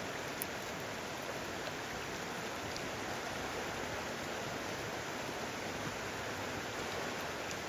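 A river rushing: a steady, even wash of flowing water.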